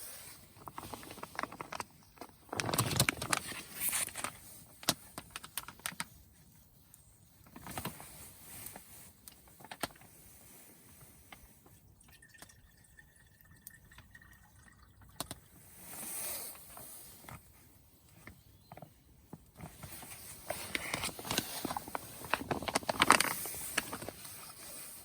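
Water being poured and sloshing in short bursts, with scattered clicks and knocks, the longest pours about three seconds in and again about twenty seconds in.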